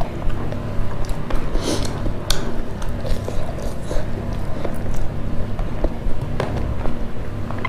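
Close-miked chewing and wet mouth smacks of a person eating rice by hand, with scattered short sharp clicks, over a steady low hum.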